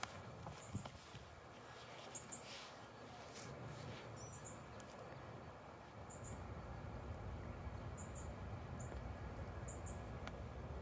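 A small bird giving short, high chirps in twos and threes every second or two, over a steady outdoor hiss. A low rumble comes up about six seconds in.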